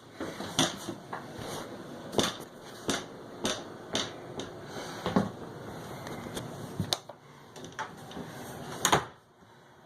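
Irregular sharp clicks and knocks, about a dozen, over a steady background noise; the loudest knock comes near the end.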